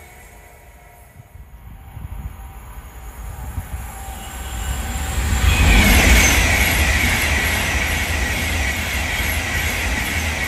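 A train approaching and passing: a deep rumble that builds over several seconds and is loudest about six seconds in, with a high tone sliding slowly down in pitch through the second half.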